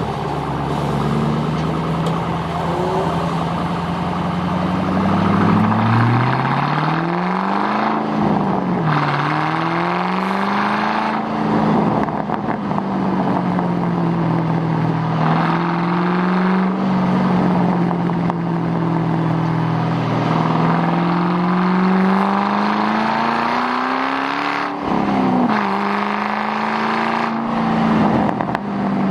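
2006 Mustang GT's 4.6-litre V8 with the mufflers deleted, running hard on track. Its pitch climbs and falls with the revs: a steady climb drops off sharply about eight seconds in, and a longer climb drops off again near the end.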